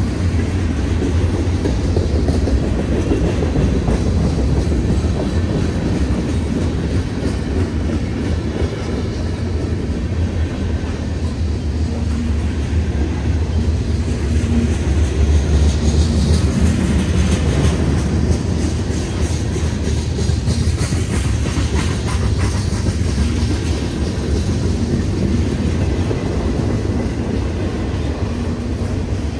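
Freight train cars rolling past close by: a steady, loud rumble with the clatter of steel wheels on the rails.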